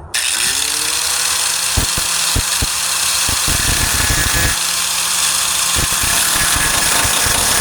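A 4-1/2 in. electric angle grinder with a thin cutting disc starts up, winds up to speed within the first second and then runs steadily as it cuts into rusted tailgate sheet steel. A few brief knocks come through as the disc bites into the metal.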